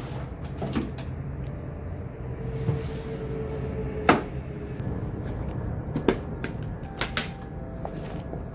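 Kitchen cupboard doors opening and closing, with a few sharp knocks, the loudest about four seconds in, over a steady low hum.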